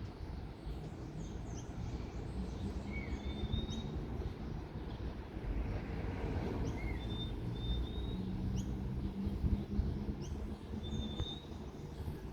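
Outdoor ambience: a steady low rumble and hum, with scattered short, high bird chirps and brief whistled bird notes over it.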